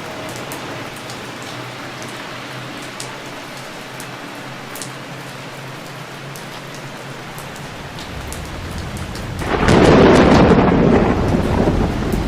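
Steady rain with scattered drops, then thunder: a low rumble builds from about eight seconds in and breaks loudly about a second and a half later, rolling on to the end.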